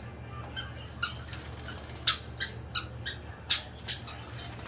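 A pet talking bird giving a string of short, sharp squawks, about nine in all, the loudest about two and three and a half seconds in, over a steady low hum.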